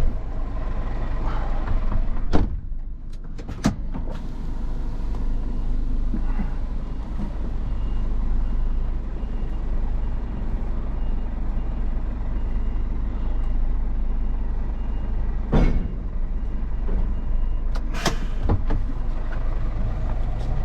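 Truck engine running with a steady low hum while the extendable container trailer is shortened, a reversing beeper sounding repeatedly through the middle. Several short sharp noises cut through, the loudest about two seconds in and two more near the end.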